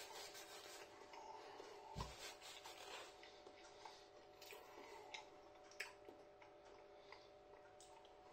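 Near silence with faint chewing: soft, irregular mouth clicks and smacks from a bite of toasted, buttered hot cross bun, fading out over the last couple of seconds, over a faint steady hum.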